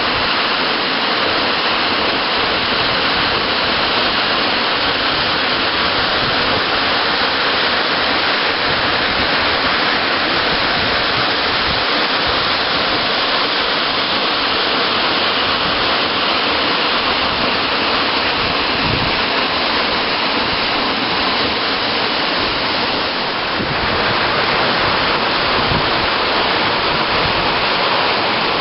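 Hossawa Falls waterfall: a steady, loud rush of falling water, dipping slightly about three-quarters of the way through.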